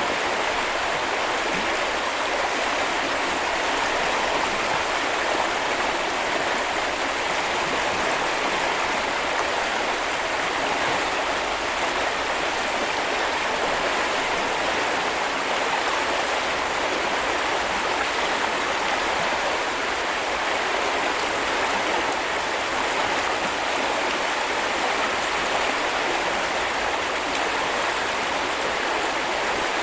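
Small river or brook flowing, a steady rushing and babbling of water.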